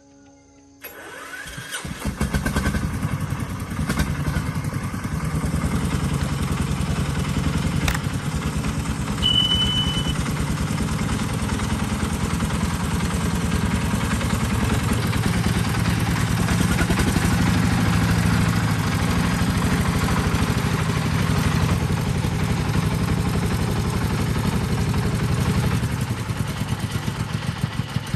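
Truck tractor's engine starting about two seconds in, then running steadily with a fast, even firing beat.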